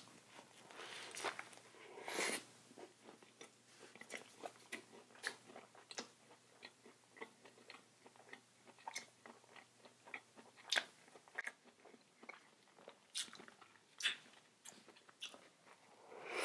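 Close-miked eating: a plant-based chicken sandwich being bitten and chewed, with irregular small crunches and wet mouth clicks.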